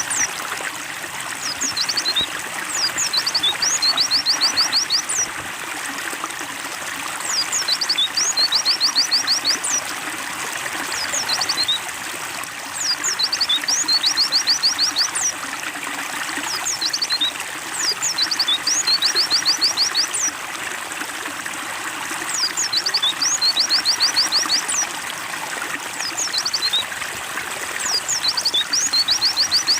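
Steady trickling water with a white-eye (pleci) singing over it: a short phrase of rapid, evenly spaced high notes, repeated every five seconds or so.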